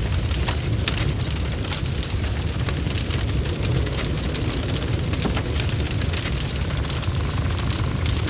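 Bonfire burning: a steady low rumble of flame with frequent sharp crackles and pops from the burning wood, scattered irregularly.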